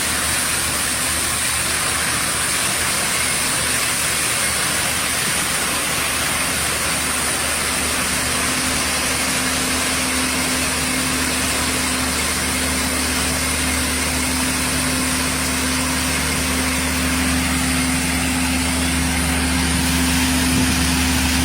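Dump truck's diesel engine running steadily, a constant hum with a low tone that strengthens partway through and grows slightly louder near the end.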